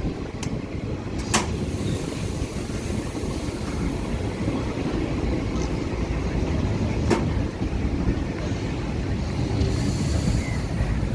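Train in motion: a steady low rumble with two sharp clicks, about a second in and about seven seconds in.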